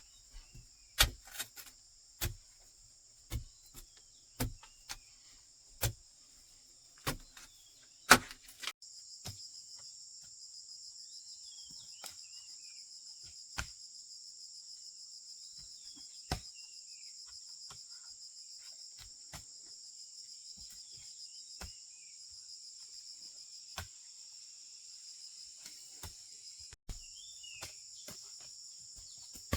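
Steady high-pitched chorus of crickets and other insects. In the first third it comes with a run of sharp knocks about once a second, the loudest near the end of the run. After a sudden cut the insect chorus goes on alone, louder, with scattered clicks and a few faint bird chirps.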